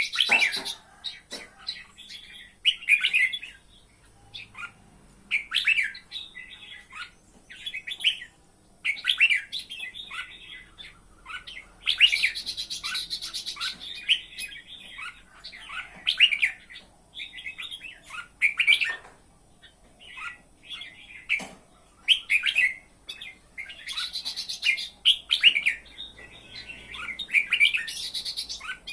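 A bird singing in short chirping phrases, repeated every couple of seconds, with two longer, fuller bursts of song partway through.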